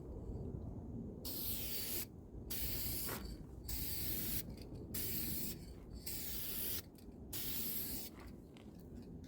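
Paint being sprayed onto a car body panel in about six short hissing bursts, each a second or less, as a coat of paint goes over a rust repair.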